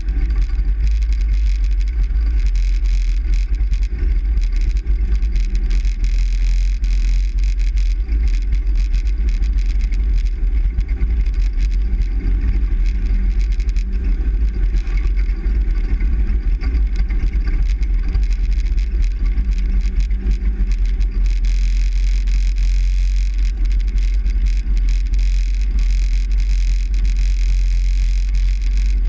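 Steady low rumble of a truck on the move, engine and road noise heard from inside the cab.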